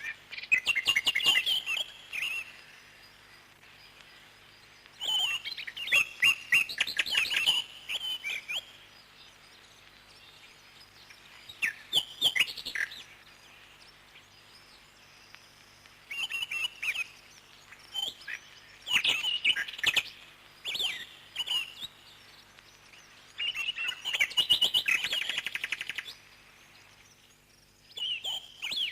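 Parrots chirping in repeated bouts of rapid, high chirps, each bout lasting a second to a few seconds, with quieter gaps of a few seconds between.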